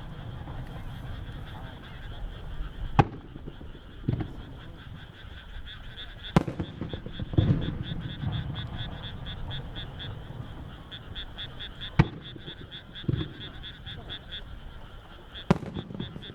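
Aerial firework shells bursting with four sharp reports, each followed by low, rolling booms. Throughout, a chorus of frogs calls in a fast, even pulse.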